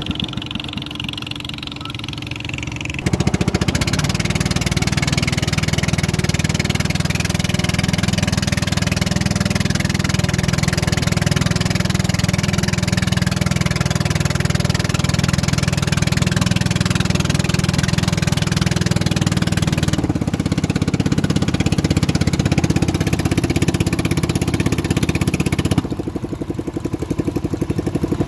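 An engine running steadily with a regular pulse. It gets louder about three seconds in, shifts pitch around twenty seconds, and drops back a little near the end.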